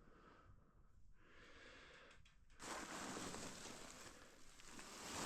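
Near silence, then about two and a half seconds in, a long, heavy breath that swells toward the end.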